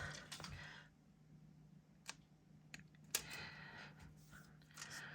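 Faint, scattered clicks and light handling noises of stickers and paper being worked on a desk, the sharpest tick about three seconds in, over a faint steady hum.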